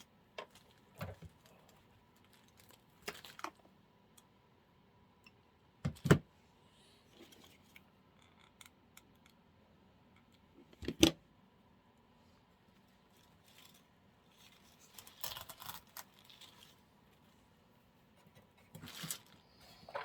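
Artificial flower picks and craft materials being handled on a desk: scattered clicks, rustles and light knocks, with two sharper knocks about six and eleven seconds in.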